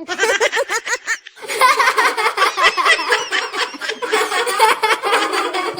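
Fast, high-pitched laughter: a short run of quick "ha" pulses, a brief break, then a longer unbroken run of rapid laughing.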